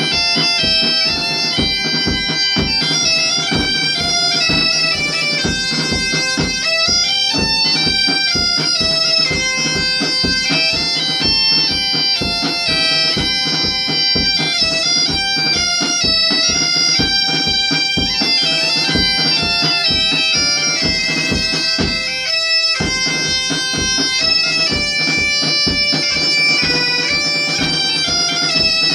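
Bagpipe playing a folk tune over its steady drone, accompanied by a drum keeping an even beat.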